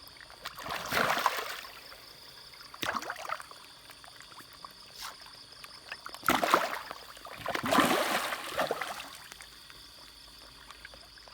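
Fish splashing at the pond surface as they take feed, in separate bursts: one about a second in, a smaller one near three seconds, and a larger run of splashes from about six to nine seconds.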